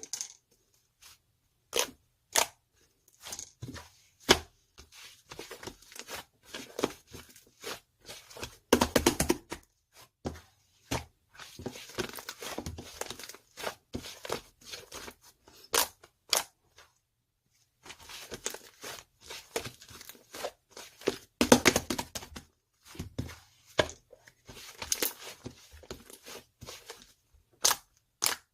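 Slime being squished, stretched and poked by hand: a quick run of sharp clicks and pops mixed with crackly, tearing stretches, pausing briefly a couple of times.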